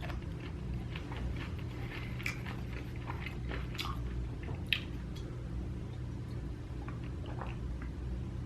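A person chewing food close to the microphone: soft, irregular wet clicks and smacks of the mouth, with a sharper click a little before the five-second mark, over a steady low hum.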